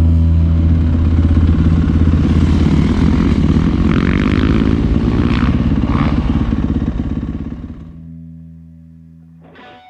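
Yamaha 450F four-stroke dirt bike engine running, with a few brief rises in pitch about halfway through, then fading away over the last couple of seconds.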